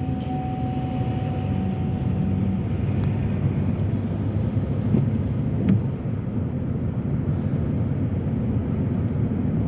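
Car being driven: steady engine and road rumble heard from inside the cabin, with one sharp click nearly six seconds in.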